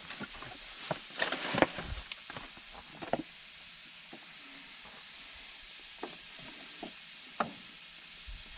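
Food sizzling as it fries in a pan, with a steady hiss. Several short knocks and scrapes from a utensil stirring in the pan come about a second in, around three seconds, and a few times near the end.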